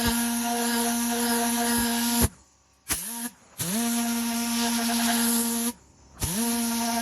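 Handheld electric motor tool running with a steady hum and hiss. It is switched off about two seconds in, blips briefly, and spins back up a second later. It stops and spins up again near the end.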